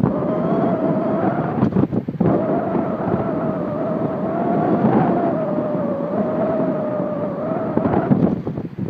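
A motor running at a steady, slightly wavering pitch under heavy wind buffeting the microphone, with a few gusts or knocks about two seconds in. The motor tone fades out near the end.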